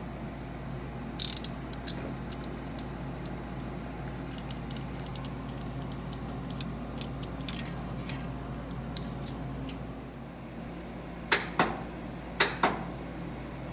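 Ratchet wrench clicking in short runs as spark plugs are removed from the engine, with a few louder metal clacks near the end.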